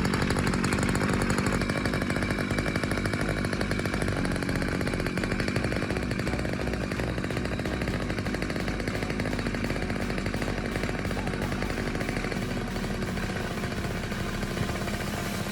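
Small two-stroke engine of a restored water pump running steadily, with a rapid even firing beat.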